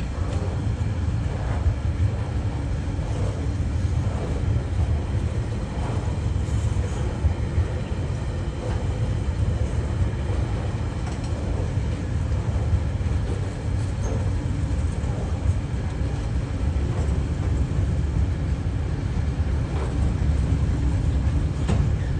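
TasRail freight train passing at close range: a steady low rumble from the rolling train on the track, with faint scattered clicks over it.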